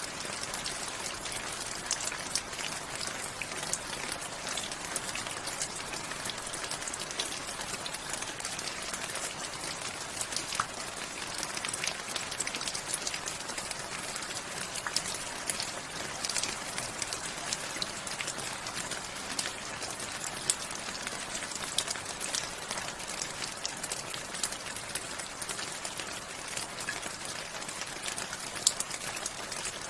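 Steady rain falling, a dense even hiss with many close drop ticks and now and then a sharper single drip.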